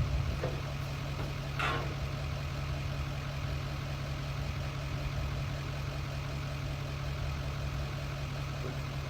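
C60 dump truck's engine idling steadily, with one short, sharper noise about a second and a half in.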